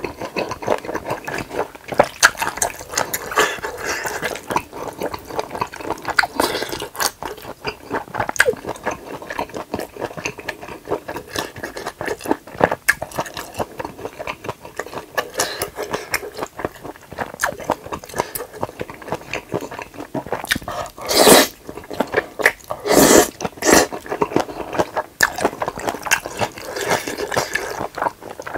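Close-miked chewing of spicy stir-fried pork intestines and glass noodles: a continuous run of wet, sticky smacks and squelches, with two louder bursts about three-quarters of the way through.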